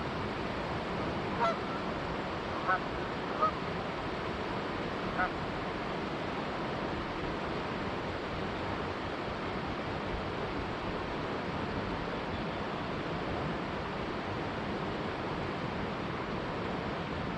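Four short Canada goose honks within the first five seconds or so, over the steady rush of a flowing river.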